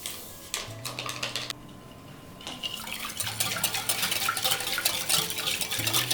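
Kitchen utensils clinking and rattling against dishes, a few light knocks at first and then a busy run of clatter through the second half, as in stirring or mixing in a bowl.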